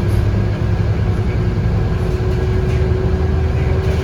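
Scania K230UB bus's 8.9-litre five-cylinder DC9 diesel engine running steadily under way, heard from inside the cabin, with a thin steady whine over the engine drone.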